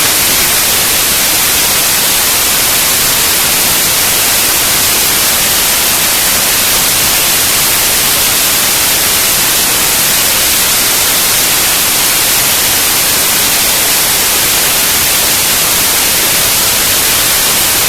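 Loud, steady hiss like static or white noise, strongest in the high range and unchanging throughout.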